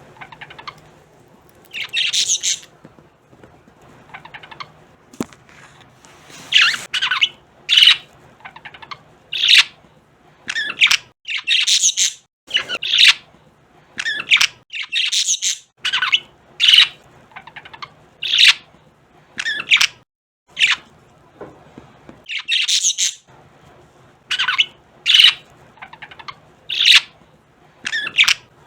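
Budgerigars chirping and squawking in short, high-pitched bursts that come about every one to two seconds, with a faint steady low hum underneath.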